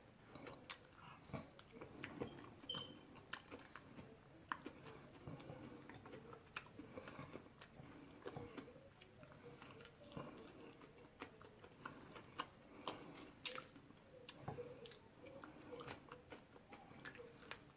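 A man chewing chicken close to the microphone: faint, irregular mouth clicks and smacks, with a few sharper clicks scattered through.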